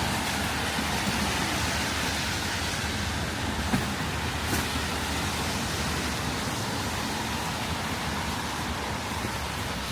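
Steady hiss of a wet city street in the rain: rain noise mixed with passing road traffic, with one small knock nearly four seconds in.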